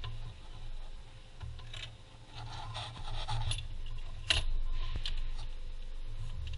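Small metal parts and tools being handled: scattered scrapes and clinks, with one sharp click about four seconds in.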